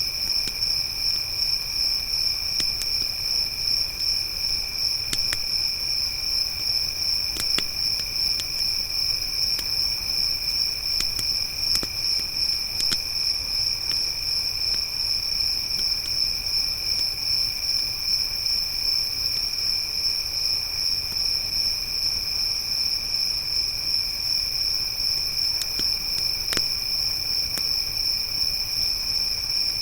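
Crickets chirping steadily in a continuous high chorus, with sparse sharp pops and crackles from a campfire every few seconds.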